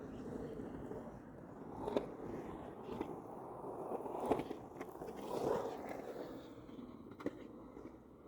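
Skateboard rolling with a steady noise, broken by several sharp clacks and scrapes.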